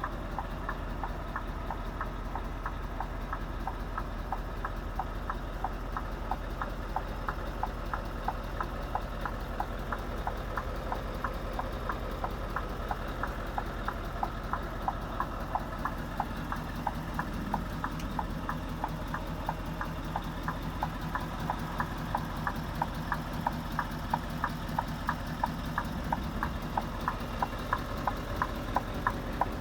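Scania R520 16-litre V8 diesel idling steadily, with a sharp regular ticking about two times a second over the engine hum.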